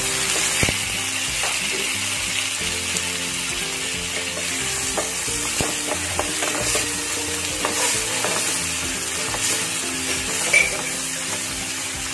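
Sliced tomatoes, onion, garlic and ginger sizzling steadily in hot oil in a stainless steel wok. They are stirred with a spatula that scrapes and clicks against the pan now and then.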